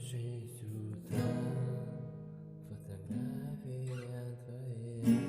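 Acoustic guitar strummed, chords ringing on with a new stroke about every two seconds, the loudest near the end.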